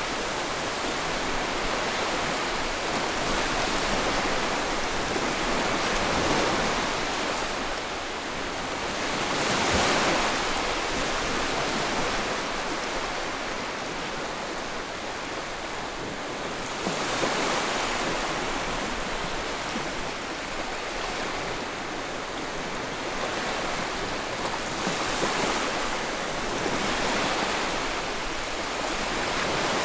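Sea waves breaking and washing on the shore in a continuous rush of surf, swelling every few seconds as a wave comes in.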